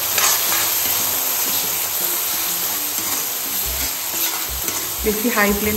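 Tomato and spice paste frying in oil in a pan, sizzling steadily while it is stirred, with a few light taps of the spoon.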